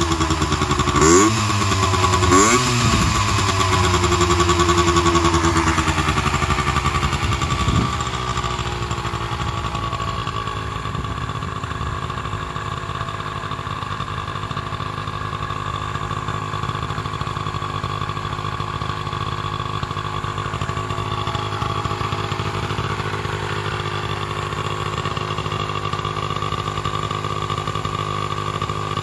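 Gilera Eaglet 50's small single-cylinder engine revved in two quick blips and held at higher revs for a few seconds. About eight seconds in it drops back to a steady idle.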